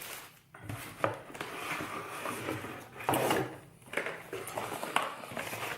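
Plastic packaging being handled and pulled off a box, crinkling and rustling with small clicks and taps, louder about three seconds in.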